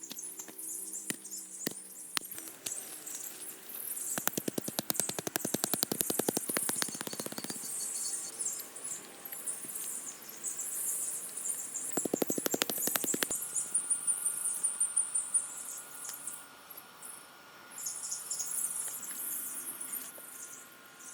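Two runs of rapid, even clicking strokes, roughly ten a second: one about four seconds in lasting a few seconds, a shorter one about twelve seconds in. High chirping of birds and insects continues behind them.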